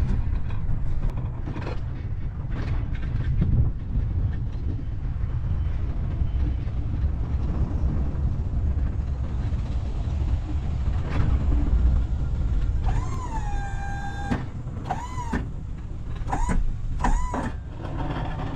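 Low, steady rumble of a vehicle running, with a few high pitched squeals in the last few seconds: one dips in pitch and holds for about a second, and several shorter ones follow.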